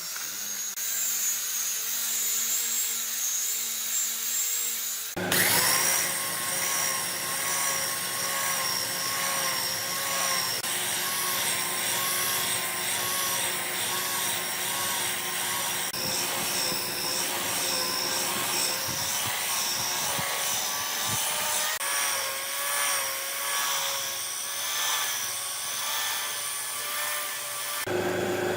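Electric power tool running with a steady whine, working on wood; the sound changes abruptly about five seconds in.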